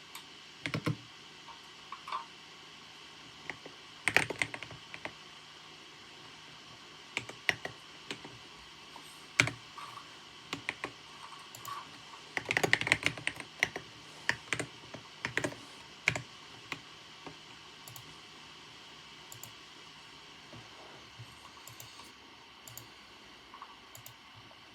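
Typing on a computer keyboard: irregular bursts of key clicks, with a quick flurry around the middle and only scattered, fainter keystrokes near the end, over a faint steady hiss.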